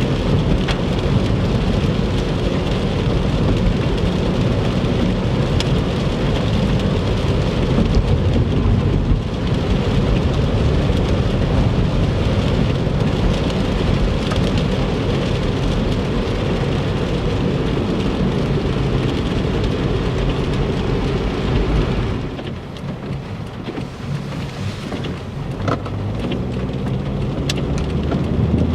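Heavy rain pelting a moving car, mixed with tyre spray and road rumble, as heard from the car. The din drops noticeably about three-quarters of the way through, then slowly builds again.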